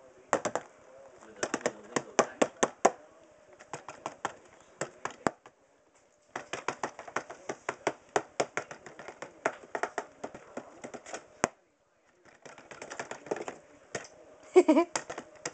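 Bursts of rapid clicking and tapping on a cardboard tissue box, several clicks a second, with short pauses between the bursts.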